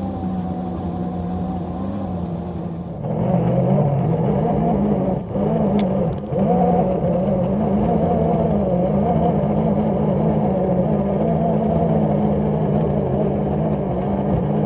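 Miniature railroad locomotive's engine running steadily under load while pushing a snow plow. It rises to a louder, higher-pitched note about three seconds in, dips briefly twice shortly after, then holds.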